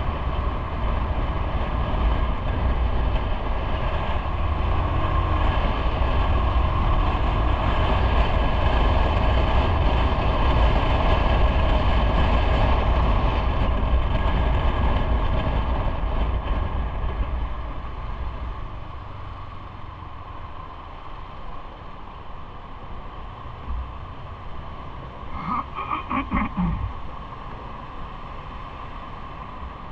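A train running steadily with a deep rumble and a steady whine, then growing quieter after about seventeen seconds as it slows. A brief squeal comes about twenty-six seconds in.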